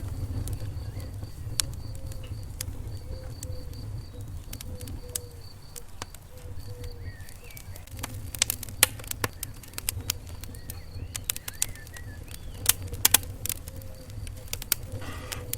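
Wood fire in a fireplace crackling: irregular sharp pops and snaps over a low, steady rumble of flame, the pops coming thicker and louder about halfway through.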